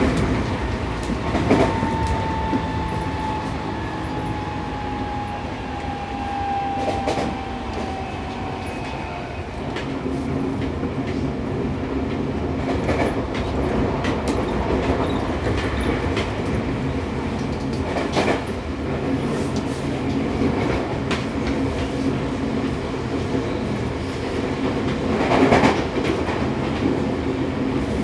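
Interior running noise of a Seibu 6000 series motor car with Toshiba IGBT-VVVF traction equipment, travelling at speed. The wheels click over rail joints several times, and a thin whine slowly falls in pitch over the first several seconds.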